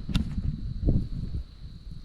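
Footsteps and rustling as a person walks through cover, with a sharp click just after the start and a faint steady high whine behind.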